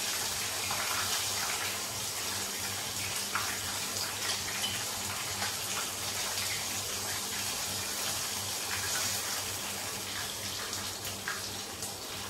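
Chicken pieces frying in hot oil in a frying pan: a steady sizzling hiss with small crackles and pops, and a few light clicks as tongs turn and lift the pieces.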